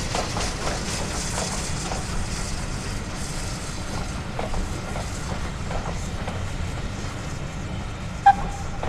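A train running along the track: a steady low rumble with scattered clicks and knocks from the wheels and rails. A fading hiss sits over it early on. Near the end comes one brief, sharp, high-pitched chirp.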